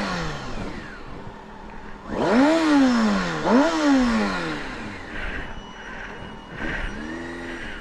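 Motorcycle engine revved twice in quick succession, pitch rising sharply and then falling away each time, with wind noise on the microphone.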